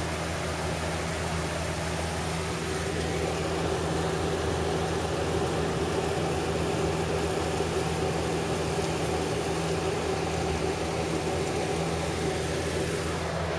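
A steady hum with an even hiss over it, unchanging throughout, with no thunderclaps or other sudden sounds.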